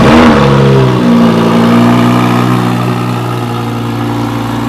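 Lamborghini Huracán Performante's V10 starting up: it catches with a sudden loud burst, the pitch flares up and drops back within about a second, then settles to a steady, loud high idle.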